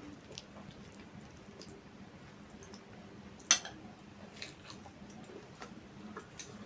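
Close-miked chewing of food, with small wet mouth clicks and squishes at an irregular pace, and one sharp, much louder click about halfway through.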